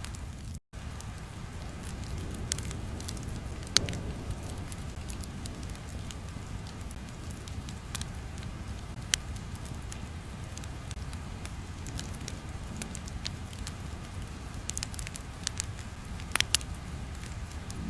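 Crackling fire ambience: a steady low rumble with scattered sharp pops and snaps. A brief cut to silence comes just over half a second in.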